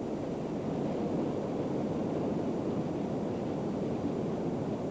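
A steady, low rushing noise with no distinct events, swelling slightly in the first second and then holding even.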